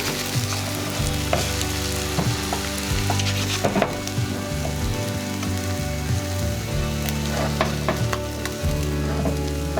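Eggs frying in a pan, sizzling steadily, with scattered sharp pops.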